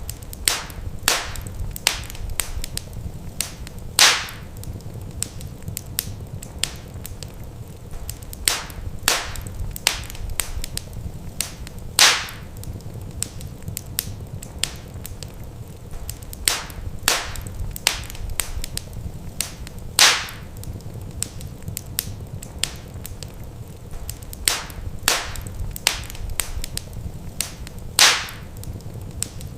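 Wood fire crackling in a fireplace: scattered sharp snaps and pops over a low steady rumble, with a louder pop about every eight seconds.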